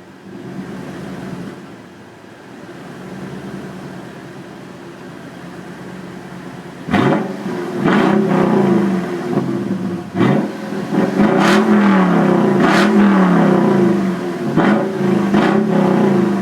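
2008 Toyota Tundra engine through a Corsa Sport performance exhaust, idling, then revved repeatedly with no load: about seven seconds in the revs begin, and the exhaust note rises and falls sharply several times.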